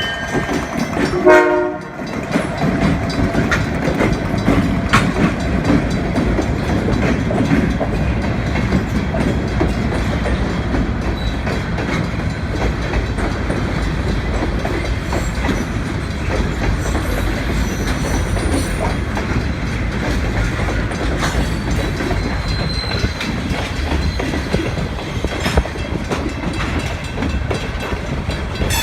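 Train passing: a short blast of the locomotive horn about a second in, then the steady rumble of rail cars rolling by, with wheels clicking over rail joints now and then.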